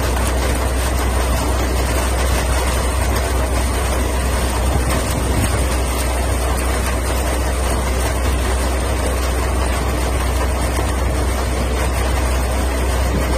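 Tractor-driven peanut picker running: a steady low engine drone under an even rushing mechanical noise that does not change.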